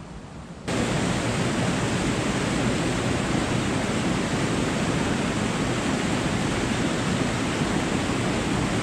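Loud, steady rushing noise, even from low to high pitch, that cuts in suddenly about a second in and cuts off suddenly near the end.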